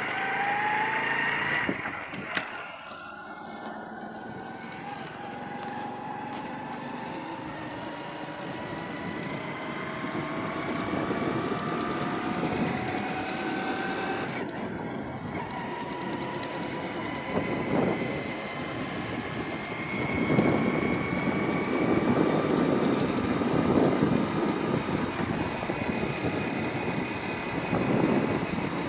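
Motorcycle engine running under way, its note climbing slowly and dropping back at gear changes about two seconds in and again near the middle, with rushing noise growing louder in the second half.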